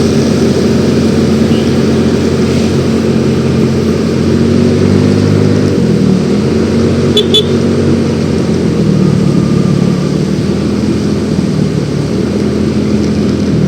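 Yamaha X-Ride 113cc scooter's single-cylinder engine running while riding. Its note drops about five or six seconds in as it slows, then rises again and holds steady. A brief double tick is heard about seven seconds in.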